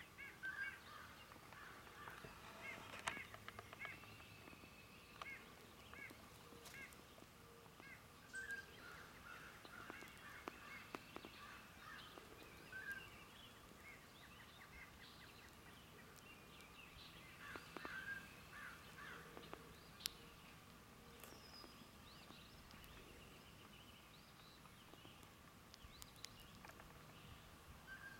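Faint outdoor birdsong: several birds chirping and calling in short, scattered notes throughout, with no single bird standing out.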